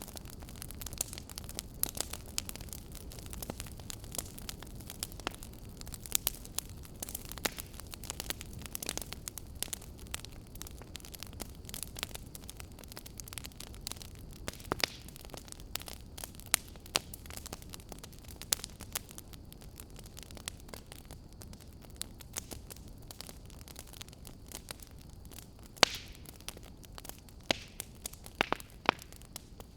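Wood fire crackling in a fireplace: irregular sharp pops and snaps over a low steady rumble, with one louder pop a little before the end.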